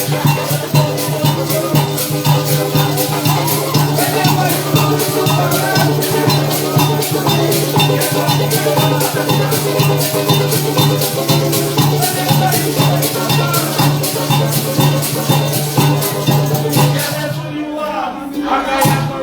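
Parang band playing an instrumental passage: plucked strings over a steady bass, with a percussion rhythm of about four strokes a second. The music stops near the end.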